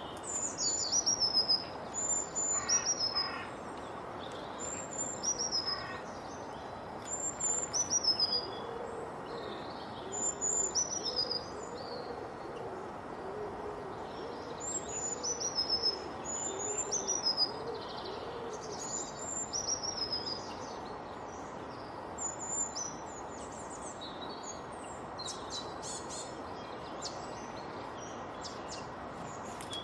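Birds singing: a high whistled phrase that slides downward repeats every second or two, with a run of low repeated calls from another bird in the middle, over a steady background hiss.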